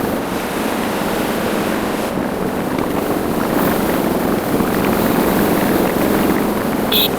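Motorcycle under way: steady wind rush over the microphone mixed with the running engine and road noise. A brief high blip sounds near the end.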